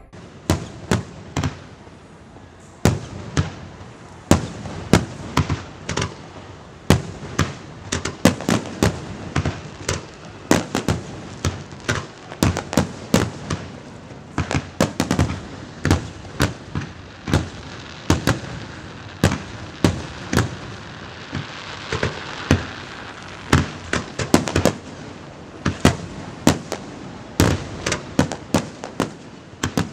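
Aerial fireworks shells bursting in quick, irregular succession, sharp bangs coming several a second at times.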